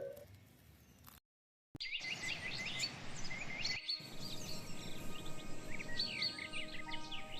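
A held, bell-like music drone fades out, a brief dead silence follows, then several birds chirp in quick, repeated high notes over a steady outdoor hiss.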